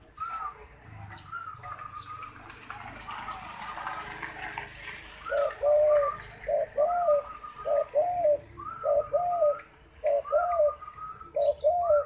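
Derkuku dove cooing repeatedly. Faint, higher coos at first, then from about five seconds in loud, regular double-note coos, roughly one phrase a second.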